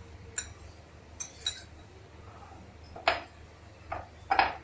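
Kitchen utensils and a bowl clinking as murukku dough ingredients are handled: about six short metallic clinks and knocks, the loudest in the second half.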